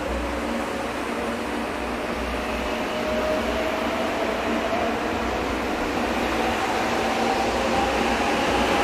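300 Series Shinkansen train accelerating: the whine of its electric traction motors rises steadily in pitch over a steady rumble and hiss, growing gradually louder.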